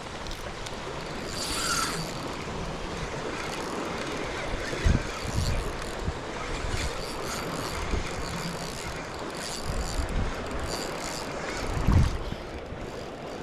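Wind buffeting the microphone as a steady rushing noise, with heavier low gusts about five seconds in and again near the end.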